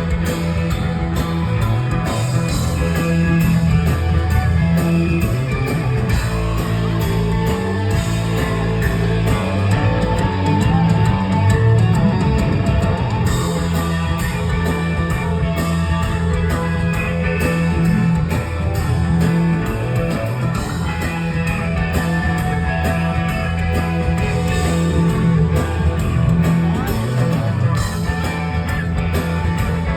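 Live rock band playing, with guitar over a heavy, steady bass line.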